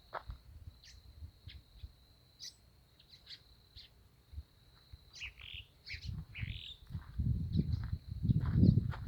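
Many small birds chirping and calling over a steady high-pitched whine. From about seven seconds in, a loud low rumble comes in and is the loudest sound.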